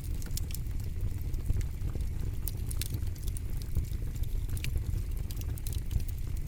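Campfire crackling: frequent small, irregular pops and snaps over a steady low rumble.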